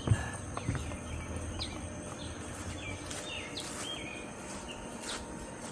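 Wild birds chirping, short separate calls scattered throughout, over a steady high insect trill and low outdoor rumble, with one sharp knock just after the start.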